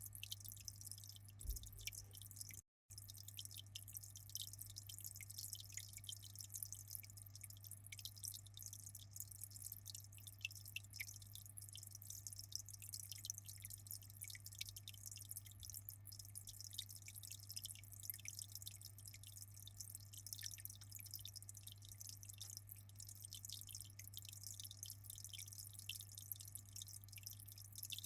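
Aquarium water dripping and trickling in a steady fine patter, over a constant low hum. The sound drops out completely for a moment about three seconds in.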